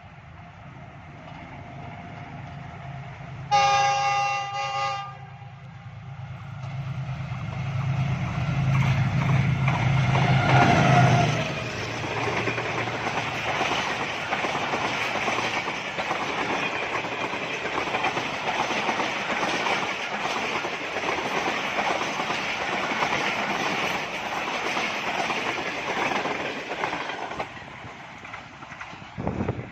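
GEU40 diesel-electric locomotive passing at speed with an express train: its engine hum builds as it approaches, with one horn blast of nearly two seconds a few seconds in. The locomotive goes by about eleven seconds in, then the coaches run past with a steady rattle of wheels on the rails for about fifteen seconds before the sound drops away near the end.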